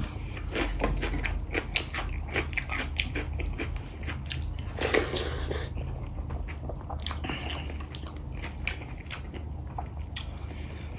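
A person eating, chewing and biting food with many short crunchy clicks.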